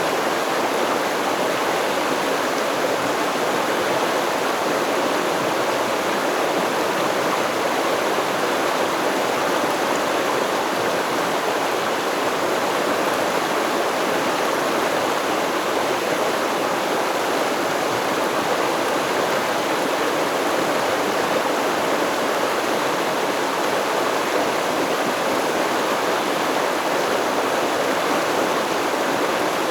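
A stream running over rocks, a steady rush of water without a break.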